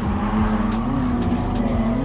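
Drift car's engine held high in the revs, its pitch wavering up and down as the throttle is worked, over background music with a steady beat.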